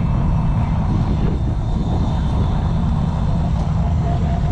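Car engine running steadily: a constant low rumble with a fluttering pulse.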